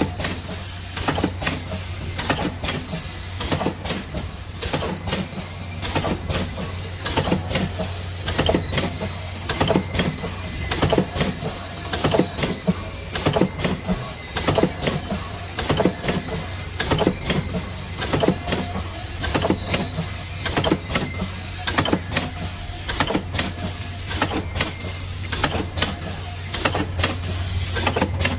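Automatic inner-and-outer tea bag packing machine running: a steady hum under a fast, continuous clatter of clicks and knocks from its moving parts.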